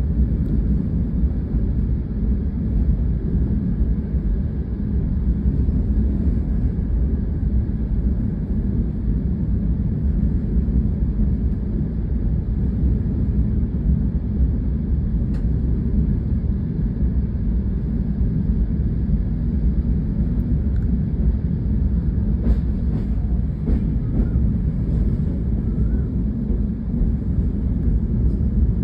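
A steady, low rumbling outdoor noise that holds an even level throughout, with a few faint ticks.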